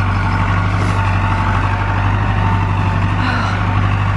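A vehicle engine running steadily close by: an even, deep drone that holds level throughout.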